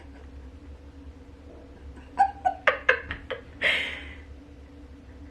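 A person laughing: a quick run of about six short bursts starting about two seconds in, ending in a breathy outbreath.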